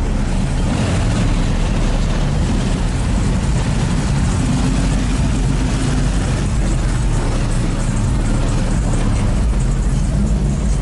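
Car engine idling steadily, loud and deep.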